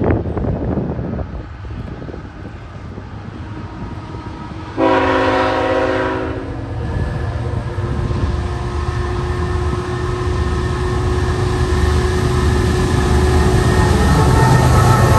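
Diesel freight locomotive sounding its air horn in one long chord about five seconds in, then the train's diesel engines getting steadily louder as it approaches.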